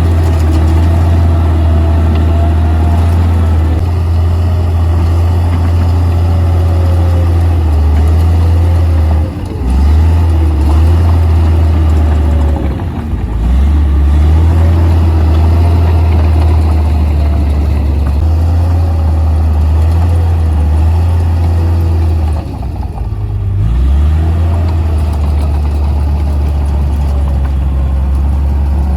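Komatsu D58P bulldozer's diesel engine running steadily with a deep hum and a fainter wavering whine above it, dropping off briefly three times as the load eases.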